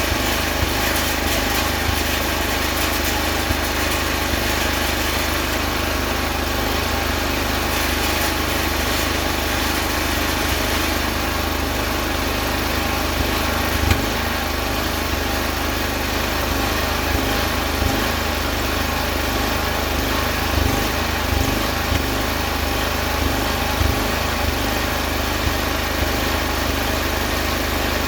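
Welding machine running: a steady buzzing hum with occasional small clicks.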